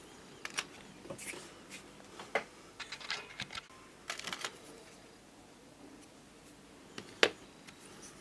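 Small irregular clicks, taps and light scraping of hands handling small parts and tools at a workbench, with one sharp click about seven seconds in.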